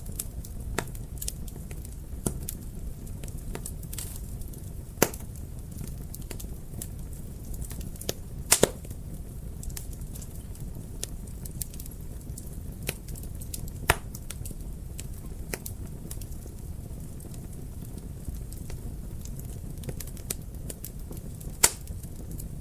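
Wood fire crackling in a fireplace: a steady low rumble of flames with irregular sharp pops and snaps, a few of them much louder than the rest.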